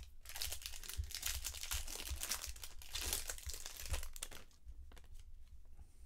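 Foil trading-card pack wrapper crinkling and tearing as it is ripped open. There are about four seconds of dense crackle, then quieter handling near the end.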